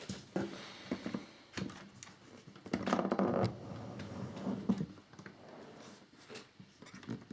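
Scattered small clicks, taps and rustles of plastic scale-model fairing parts and screws being handled on a workbench, with a brief burst of handling noise about three seconds in.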